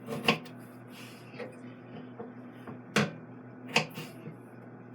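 A knife knocking on a cutting board while carrots are cut into thin matchsticks: a few sharp single knocks, the loudest about three seconds in, with a quieter tick or two between.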